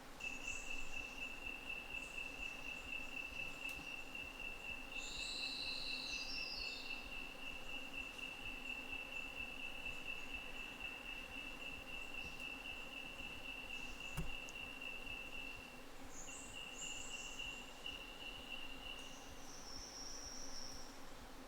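A calling insect's long, steady, high-pitched trill, which breaks briefly about three-quarters of the way through and then stops a few seconds later, with short higher chirps from other insects or birds above it and one sharp click near the middle.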